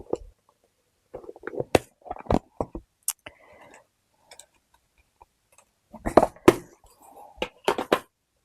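Paper and small metal crafting tools being handled on a work surface: rustling with sharp clicks and taps, in two busy bursts, one about a second in and one near the end.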